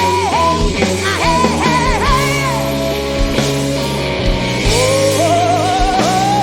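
Live blues-rock performance: a woman's powerful voice sings over bass, drums and band. Near the end she holds one long, slowly rising note with vibrato.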